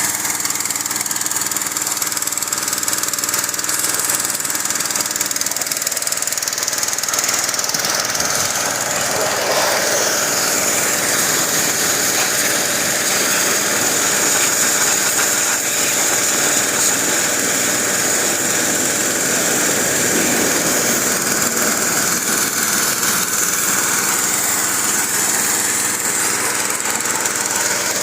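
Small engine of a car-wash pressure washer running steadily, with a constant high whine over it.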